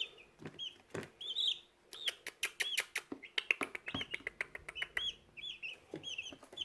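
Young chicks, about 11 days old, peeping: many short, high-pitched chirps in quick succession, with frequent sharp ticks among them.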